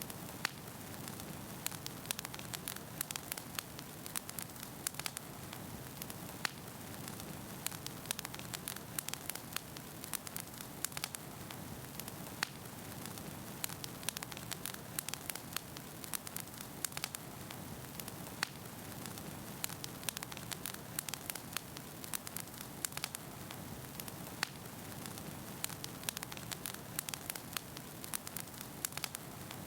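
Wood fire burning in a fireplace: a steady low rush of flame with frequent irregular crackles and pops of firewood.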